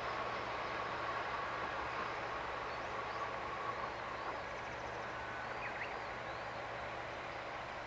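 Diesel train on a rural branch line running and fading into the distance, with a thin steady whine that dies away about four seconds in. Small birds chirp several times in the second half.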